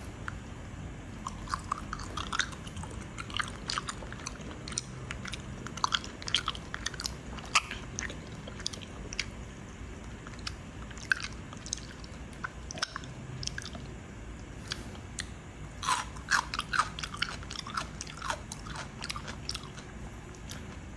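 Close-up chewing and biting of a grilled wild boar barbecue sandwich in a bun, with crisp crunching from the crispy crust and crunchy filling. The crunches come in two spells of several seconds each, the second about three-quarters of the way through.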